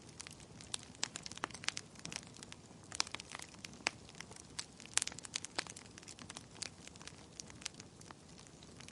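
Wood fire burning in a fireplace: irregular sharp pops and snaps, several a second, over a faint low hiss. The loudest pop comes about five seconds in.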